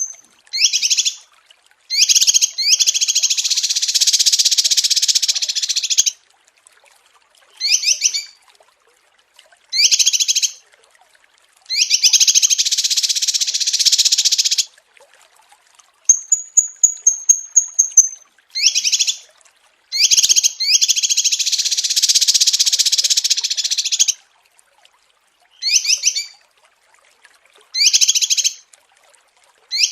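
Small songbirds singing, a compiled masteran (song-tutoring) track: high thin whistles, quick runs of short sharp chirps, and three long fast trills of a few seconds each, with silent gaps between phrases.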